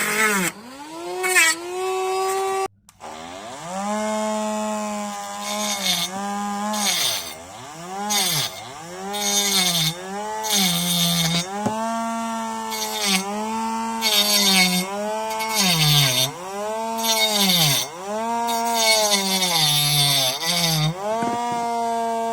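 Homemade DC-motor grinder with a small grinding disc running with a steady whine that cuts out briefly about three seconds in. It then slows again and again as the disc is pressed against something, each dip in pitch coming with a burst of harsh grinding noise, about a dozen times.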